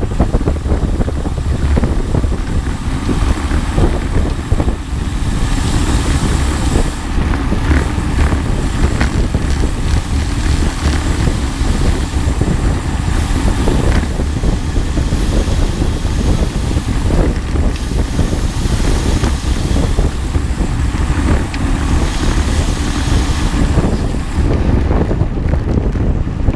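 Loud, steady wind buffeting on the microphone over a low rumble, like the noise while riding or driving along.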